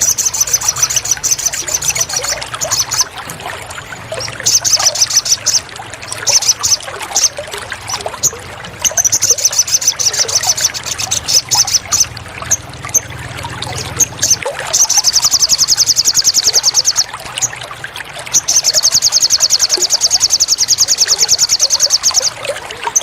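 Trickling, pouring water under a small songbird's fast, high, rattling trills, given in bursts of a second or two with short gaps, the longest trills in the second half.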